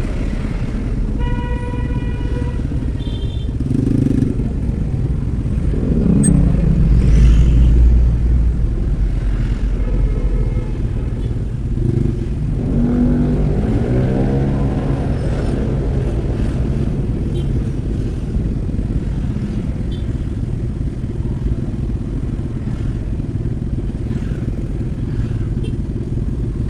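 Motor vehicle engine and road traffic running steadily, with a short horn blast about a second in.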